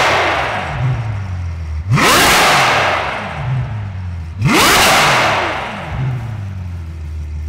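Ferrari 812 Superfast's V12 revved while standing: the tail of one throttle blip at the start, then two more about two and a half seconds apart, each rising sharply and falling back to a steady idle.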